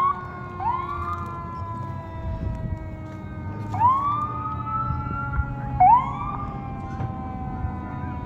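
Emergency-vehicle siren giving several quick upward whoops, each trailing off into a slowly falling wail, over a low rumble of vehicle engines.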